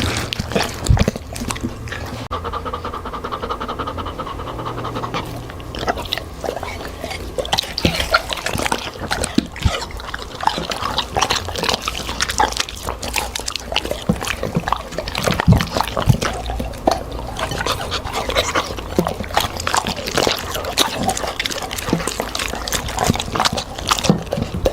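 A dog eating fruit and vegetables, with a dense run of wet smacking and crunching chews, several a second, and panting between them.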